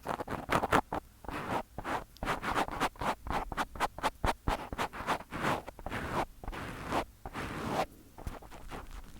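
Fingers rubbing and brushing directly on a microphone: a fast run of close, scratchy strokes, a few each second, easing off near the end.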